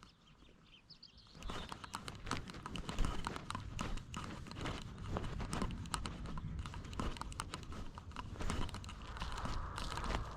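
Rapid, irregular clicks, knocks and rubbing from a GoPro strapped to a moving cat. The clicks start after about a second and a half of quieter sound.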